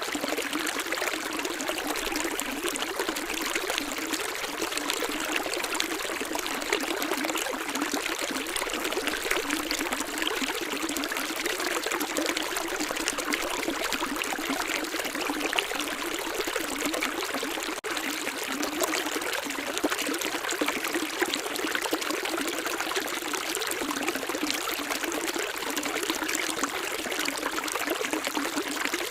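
Steady running water, a continuous rushing hiss with almost no low rumble, with a split-second gap about eighteen seconds in.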